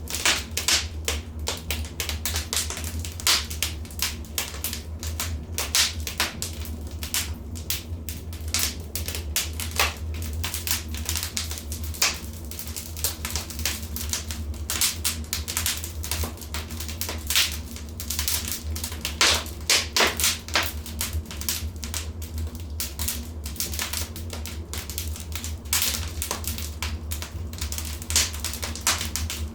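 Wood fire in a fireplace crackling, with irregular sharp snaps and pops, some louder than others, over a steady low hum.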